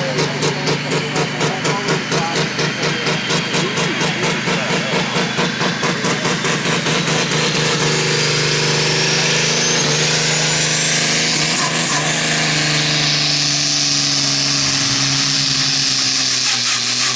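Heavily modified pulling-tractor engine at a tractor pull. It runs with a lumpy, pulsing beat at first, then goes to a steady full-power note while a high turbocharger whine climbs and holds. Near the end the engine drops off suddenly and the whine winds down.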